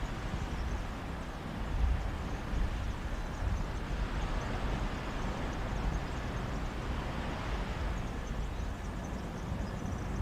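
Mediterranean sea waves washing onto a beach with a steady sea breeze, a continuous rushing noise that swells a little near the end, with low rumbles of wind on the microphone.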